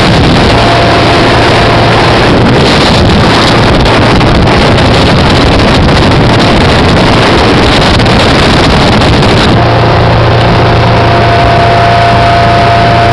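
Speedboat running fast, its engine hum buried in loud, steady rush of wind and water on the microphone. About nine and a half seconds in the hissy rush thins out and the engine's steady hum comes through more plainly.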